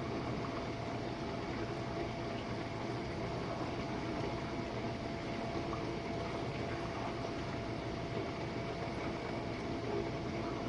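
Jenn-Air dishwasher running its Quick Wash cycle: water sloshing and spraying inside the tub over a steady pump hum with a faint constant whine.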